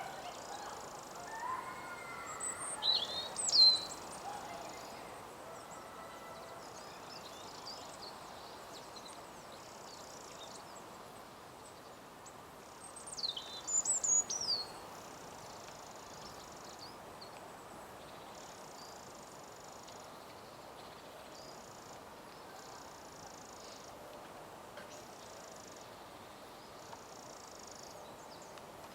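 Wild birds calling in two short bursts of high, fast-sweeping calls, a few seconds in and again about halfway through, over steady background noise. A faint high buzz repeats about every second and a half.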